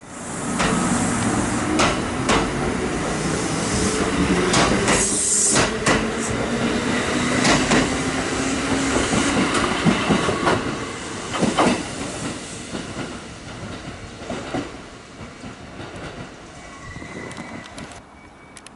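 Kintetsu 2800-series electric train pulling into a station, its wheels knocking over rail joints with a brief high-pitched sound about five seconds in. It grows quieter in the second half as it slows.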